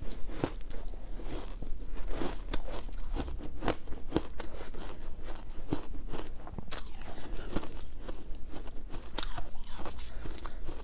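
Ice being bitten and chewed close to the microphone: a continuous, irregular run of crisp crunches.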